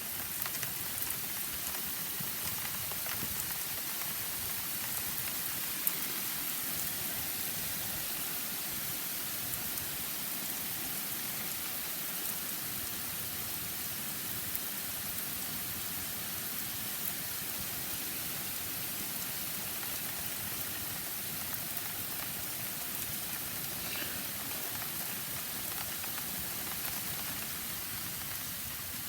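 Heavy rain falling steadily: a continuous hiss of rain, with a few louder single drops or drips ticking now and then.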